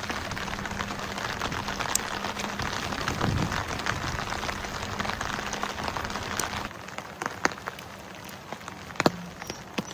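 Heavy rain falling as a dense, steady hiss; about two-thirds of the way through it gives way abruptly to quieter rain with separate sharp drops ticking down.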